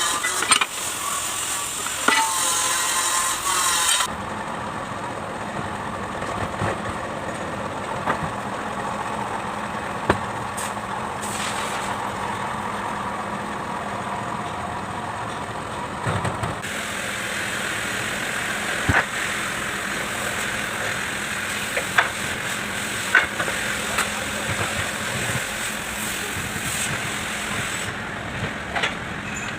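Diesel engine running steadily, with a few sharp clicks. Music plays over the first four seconds.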